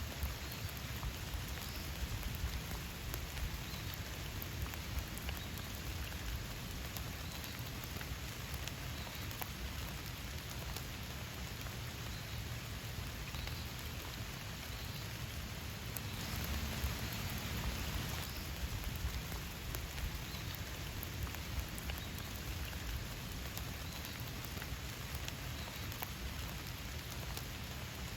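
Steady rain falling, with many individual drops tapping, briefly a little heavier about two-thirds of the way through.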